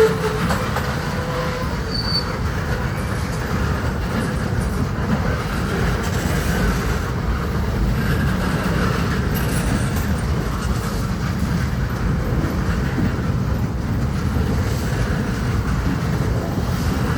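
BNSF freight train rolling past with a steady rumble of wheels on rail, with a brief high wheel squeal about two seconds in.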